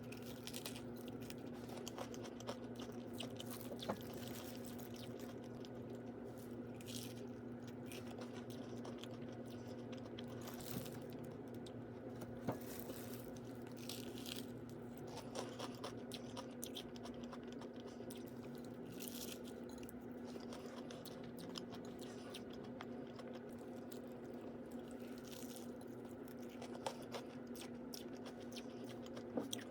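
A person eating: chewing and biting food, with many short clicks and a few brief louder bites scattered throughout, over a steady low hum.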